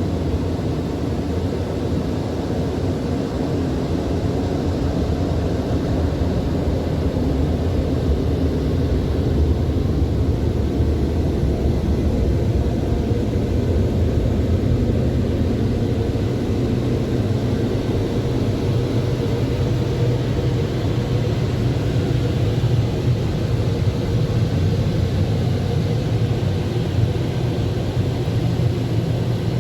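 Coleman Hanna Water Wizard 1.0 touchless car wash running steadily: a loud, even rush and rumble with a low hum, with no breaks.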